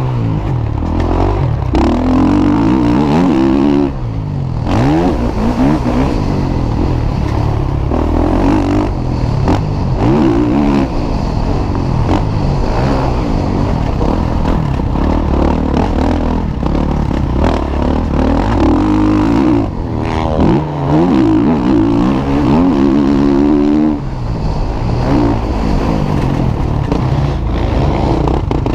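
Several MX1 motocross bikes racing, their engines revving up and down in pitch as the riders open and close the throttle and change gear. The engine notes overlap over a steady low rumble, with brief dips in loudness.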